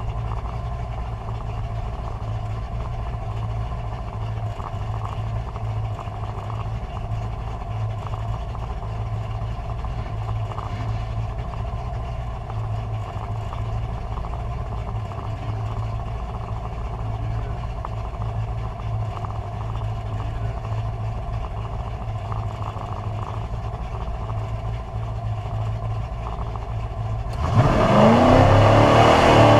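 Carbureted drag car engine idling with an uneven, lumpy note for most of the time, then going to full throttle near the end, its revs climbing fast and the sound much louder.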